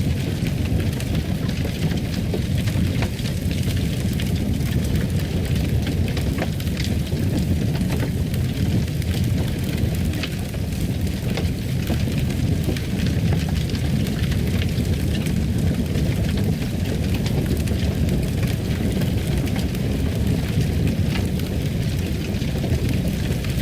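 Fire crackling in a fireplace: a steady low rumble of flames with scattered small pops and crackles.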